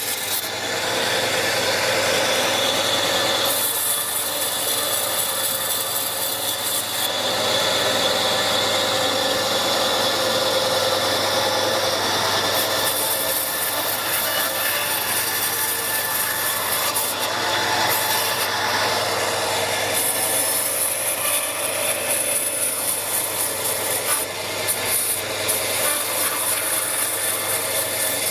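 A tool working wood: a continuous rough rasping, sawing sound that shifts in character every few seconds, over a faint steady hum.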